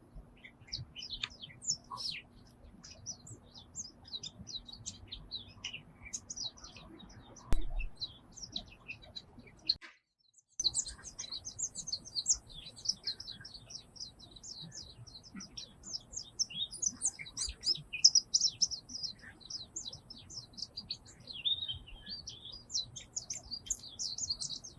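Many small birds chirping and twittering in a dense, overlapping chorus of short high calls. There is a single thump about seven and a half seconds in, and the sound cuts out for half a second about ten seconds in.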